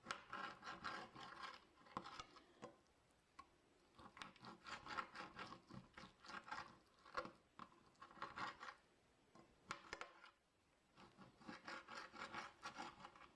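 A knife sawing through raw chicken breast against a cutting board, in four runs of quick back-and-forth strokes with short pauses between them, with a few sharp taps of the blade on the board.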